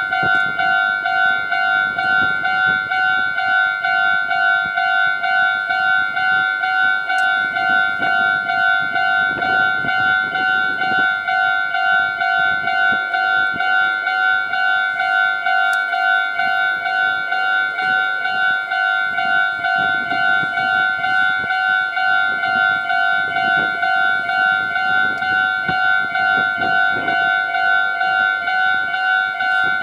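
Japanese railway level-crossing warning bell ringing steadily in rapid even pulses, with a train rumbling past underneath it.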